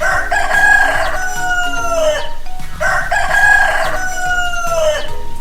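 Rooster crowing cock-a-doodle-doo twice. Each crow is long and drawn out and falls in pitch at the end.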